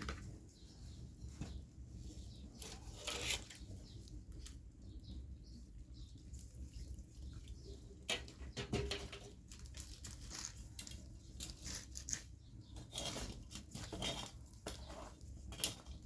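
Hands working with food and utensils: scattered light rustles, taps and scrapes, with a few sharper clicks, over a low steady hum.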